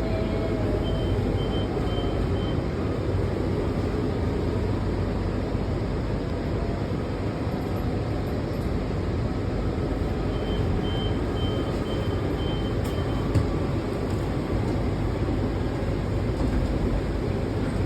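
Washington Metro train running between stations, heard from inside the car: a steady rumble of wheels and motors. A faint, high pulsed tone comes in twice, about a second in and again about ten seconds in, and there is one short click near the end.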